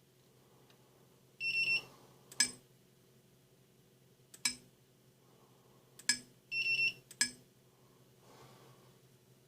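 Electronic beeping from a motor that will not spin up: two high beeps about half a second long and four short sharp chirps, irregularly spaced, over a faint steady hum.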